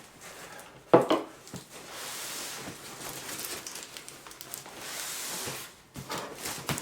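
Cardboard package being opened by hand: a sharp knock about a second in, then a few seconds of steady rasping and small clicks.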